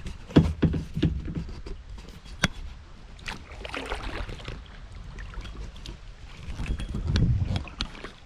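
Kayak paddling on a river: paddle water splashing and several sharp knocks, the loudest about half a second and two and a half seconds in, with a low rumble near the end.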